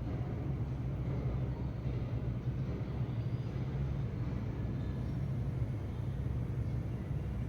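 Steady low rumble of distant traffic, with a few faint sparrow chirps.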